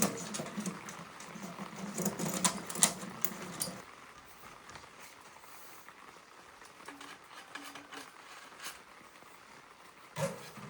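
Stove parts and stovepipe sections being unpacked and handled: clicks, light knocks and rustling, busy for the first few seconds, then sparse. A louder knock comes near the end.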